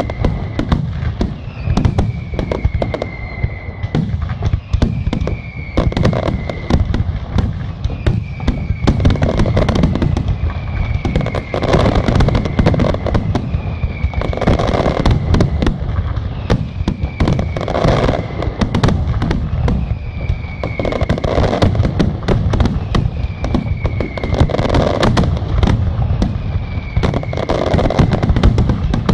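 Fireworks display: a dense, continuous barrage of bangs and crackling, with a high falling whistle recurring about every two seconds.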